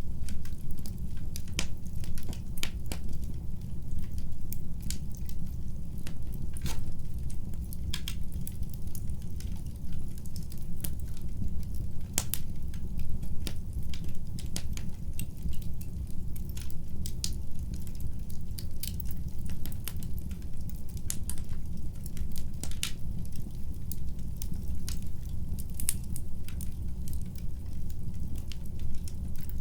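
Wood fire in a fireplace crackling: irregular sharp pops and snaps, some clustered close together, over a steady low rumble.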